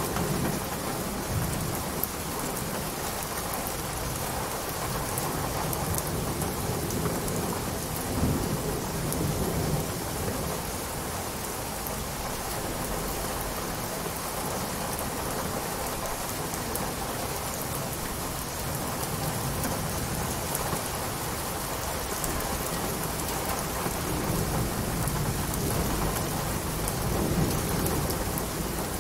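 Steady rain with fine patters of drops, under low rumbles of thunder that swell near the start, about eight seconds in, and again near the end.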